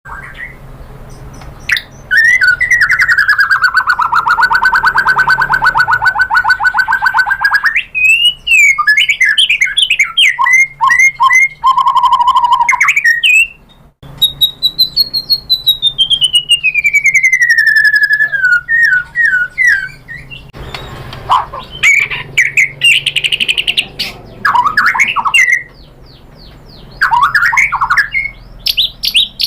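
White-rumped shama singing: a long, fast trill, then varied phrases of quick rising and falling notes, including one long whistle that slides down in pitch.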